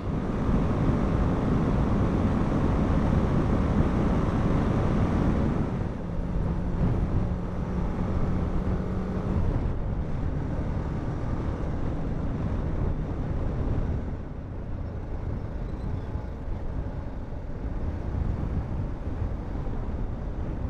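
Wind and road noise from a motorcycle under way, with the BMW G 310 GS's single-cylinder engine running underneath. The noise is louder for the first few seconds and then eases, and a steady engine hum stands out for a few seconds in the middle.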